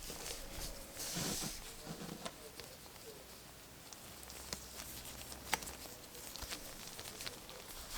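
Hands handling small plastic toy packaging and erasers: a brief crinkle of wrapping about a second in, then scattered light taps and clicks.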